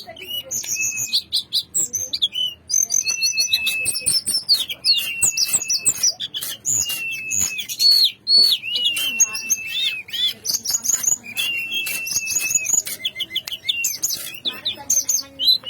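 Tledekan gunung, a small songbird, singing continuously: bursts of quick high chirps and trills that run into long level whistles, the phrase repeated over and over.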